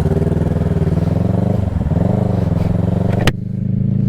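Kawasaki Ninja 650's parallel-twin engine through an M4 full aftermarket exhaust, accelerating: the exhaust note climbs, drops in pitch at a gear change a little under two seconds in, and climbs again. A sharp click comes just after three seconds.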